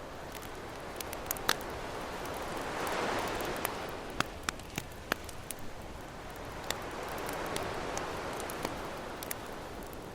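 Campfire crackling with scattered sharp pops and snaps, over ocean waves that wash in twice, swelling and ebbing.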